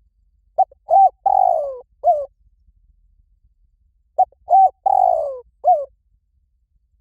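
Spotted dove cooing: two phrases of four to five notes, about three and a half seconds apart, each with a longer note that falls in pitch in the middle.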